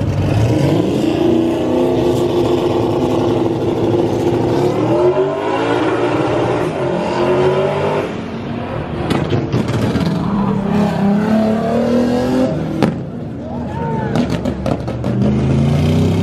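Modified car engines revving hard as cars accelerate along the street: one engine climbs in pitch and is held high for a few seconds before falling away, and another engine revs up and accelerates near the end. A single sharp crack is heard a little before the end.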